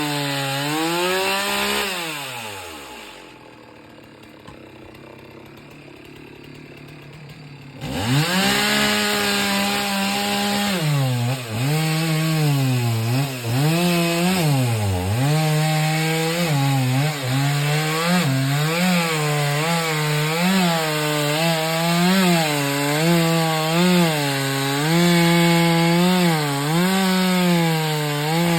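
Two-stroke chainsaw engine winding down and dropping out a couple of seconds in, then coming back hard about eight seconds in. It then runs at high revs, its pitch sagging and recovering over and over as the chain bites into wood and frees again.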